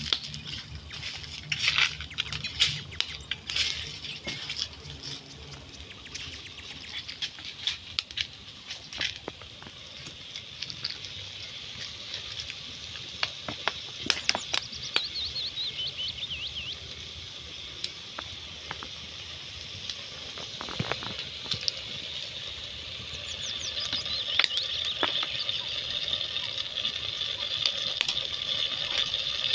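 Scattered light taps and clicks of outdoor food preparation, with a bird warbling now and then and a steady high hiss building up near the end.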